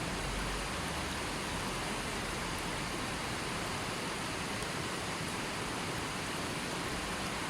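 A gently flowing river stream: an even, steady rush of water.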